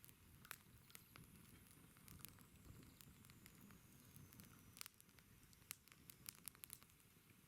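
Wood campfire crackling faintly, with scattered sharp pops. A faint high whistle slides slowly down in pitch over the first few seconds.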